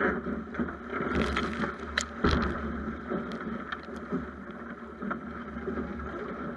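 Snipe sailing dinghy under way: water rushing and slapping along the hull with wind buffeting the action-camera microphone, and a few sharp knocks a little past two seconds in.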